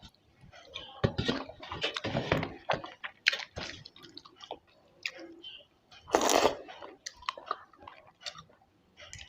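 Close-miked eating: wet chewing, lip smacks and mouth clicks, denser from about one to three seconds in, with one louder, longer wet sound about six seconds in.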